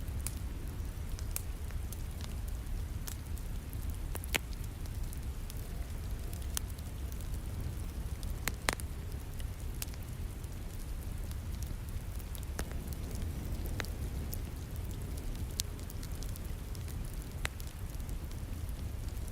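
Wood fire crackling in a fireplace, with scattered sharp pops (two louder ones about 4 and 9 seconds in), over a steady background of falling rain.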